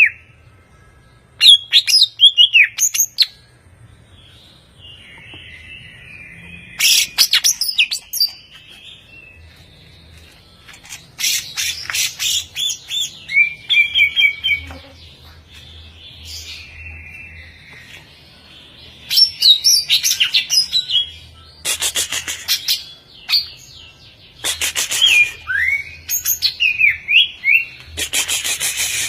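Greater green leafbird (cucak ijo) singing: repeated bursts of varied whistles and rapid chattering notes that slide up and down in pitch, separated by short pauses.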